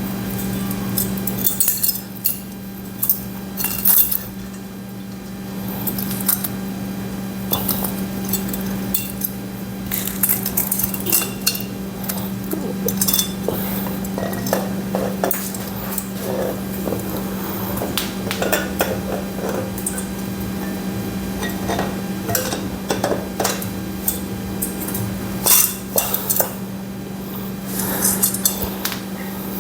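Irregular metallic clinks and taps of motorcycle engine parts being handled as the cylinder is worked down over the piston and guides, with the cam chain rattling against metal. A steady low hum runs underneath.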